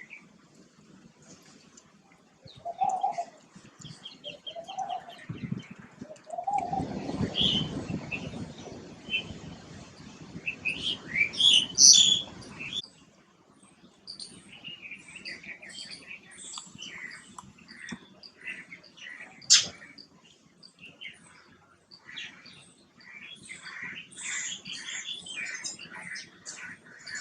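Small garden birds chirping, with rapid, dense short calls through the second half. A rushing noise runs from about a quarter to halfway in.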